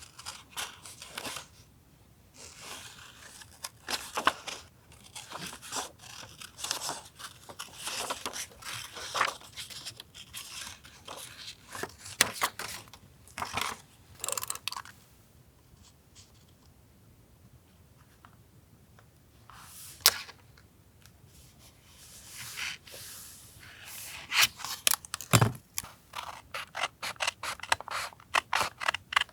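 Scissors cutting paper in runs of quick snips, with paper being handled and rustled. About halfway through there is a lull broken by one sharp click, and a dull knock a few seconds later before fast snipping resumes.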